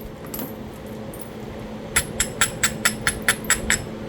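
A quick, even run of about nine light stone-on-stone clicks, about five a second, from working the edge of a Talahata quartzite biface with a knapping tool. It is heard over a steady low hum.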